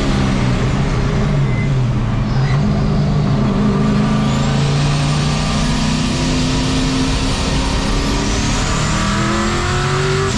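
Turbocharged engine of a 1951 Chevy race truck running at speed on a track. The engine note drops about a second in, then holds and slowly rises under throttle, with a high whine climbing near the end.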